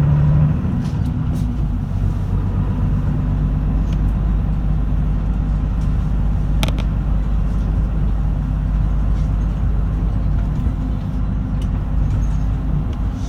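Route bus running on the road, heard from inside the cabin: a steady engine drone with road noise, and a single sharp click about seven seconds in.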